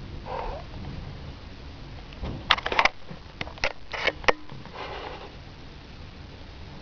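A cat pawing and sniffing at the camera close to its microphone: soft breathy sniffs, and two quick clusters of sharp taps and scratches against the camera a few seconds in.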